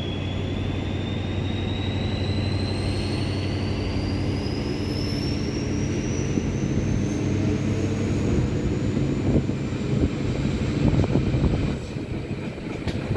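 SNCF BB 67400-class diesel-electric locomotive pulling away at full throttle: the diesel engine's steady low drone under a whine that rises steadily in pitch as the train gathers speed, with a few wheel clacks over rail joints near the end.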